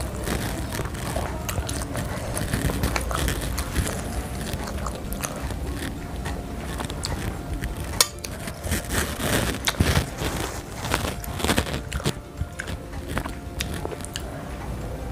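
Close-miked biting and chewing of bakso meatballs, with many small mouth clicks and crackles. A single sharp clink of a metal fork on the plate comes about eight seconds in.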